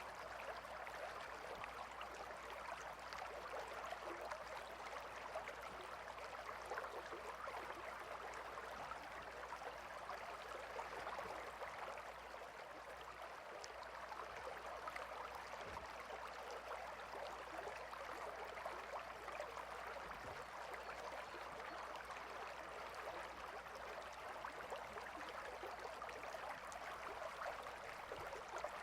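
Gentle river flowing: a steady, even rush of water with a fine splashing texture.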